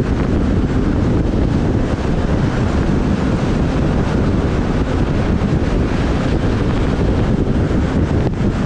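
Steady, loud wind rumble on the microphone of a camera riding on a moving motorbike.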